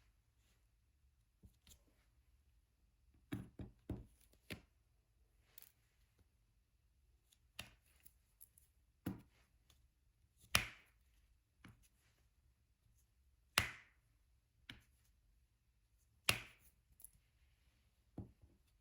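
Scattered light taps and clicks of diamond painting: a drill pen placing diamond drills onto the sticky canvas. There is a quick run of four taps a few seconds in, then single taps every second or two, the loudest around halfway and again near the end.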